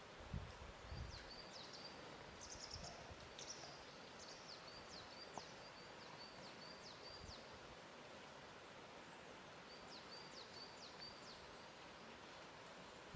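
Faint lakeshore ambience: soft water lapping in low bumps during the first second or so over a steady hiss. A small bird gives high chirps and quick downward-sweeping notes in two bouts, one in the first few seconds and another about ten seconds in.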